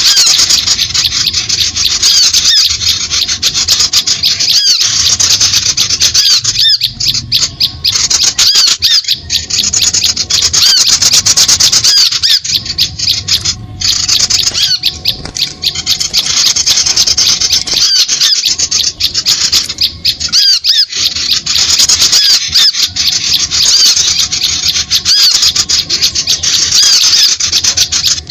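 A dense, shrill chorus of small birds calling rapidly and without let-up, with brief breaks every few seconds: a bird-lure (suara pikat) recording made to draw small birds in to lime sticks.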